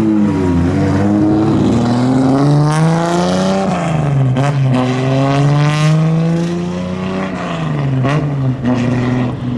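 Nissan Fairlady Z (S130) engine accelerating away through the gears: the engine note rises, drops at a gear change about four seconds in, rises again and drops once more near seven seconds, then holds steady. A few sharp cracks sound in the second half.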